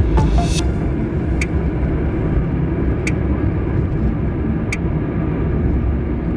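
Car driving, heard from inside the cabin: a steady low rumble of engine and road noise, with a short sharp tick about every second and a half.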